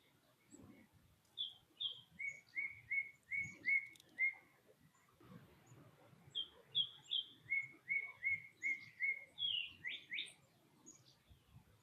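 A songbird singing two phrases, each of two or three higher notes followed by a quick run of about six lower, evenly spaced notes; the second phrase ends in two rising notes.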